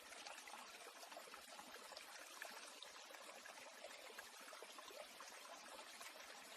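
Faint, steady trickle of running water, like a small stream, with tiny scattered drips and no birdsong.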